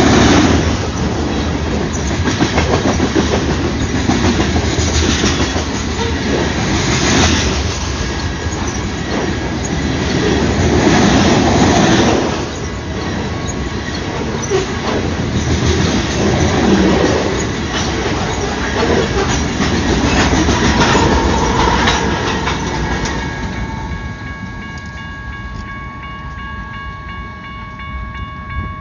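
Train passing close by, its wheels rumbling and clattering over the rails. About three quarters of the way through, the rumble dies down and a steady, high, ringing tone is left.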